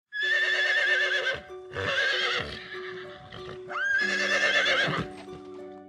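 Horse whinnying three times, each call loud with a quavering pitch, over background music.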